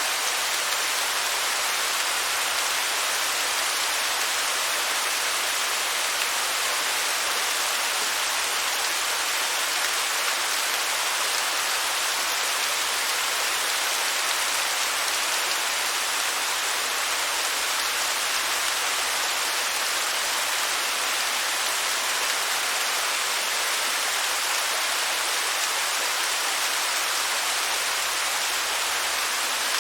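Waterfall: a steady, unchanging rush of falling water, mostly hiss, with little deep rumble.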